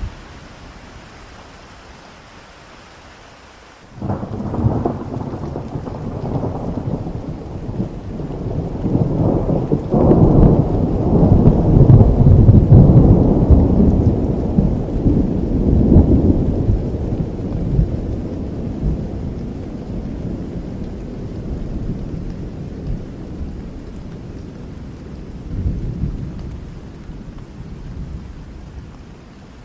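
Steady rain with a long roll of thunder: the rumble breaks in sharply about four seconds in, swells to its loudest around the middle, then slowly dies away, with one more small swell near the end.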